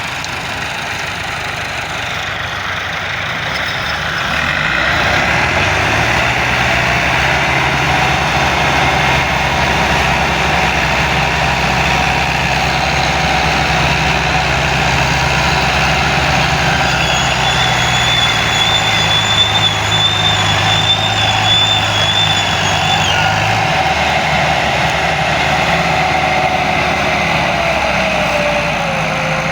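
Tractor diesel engine running steadily, growing louder about five seconds in. A high, steady whine sounds over it for several seconds past the middle.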